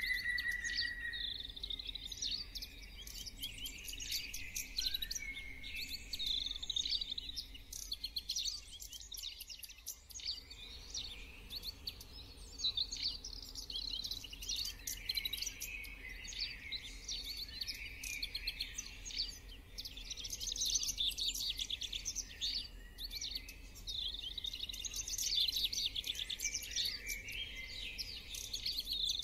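Many small birds chirping and chattering without a break, a dense chorus of quick, trilled notes.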